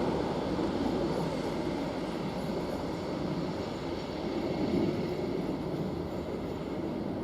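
A train running past on the rails: a steady noise of wheels and running gear, without a clear rhythm of rail joints.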